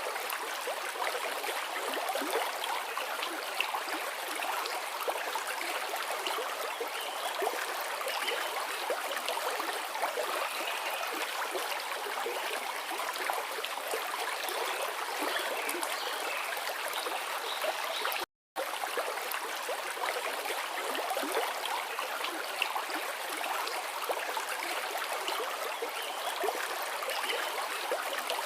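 Forest river flowing, a steady rush of running water; the sound cuts out completely for a split second about eighteen seconds in.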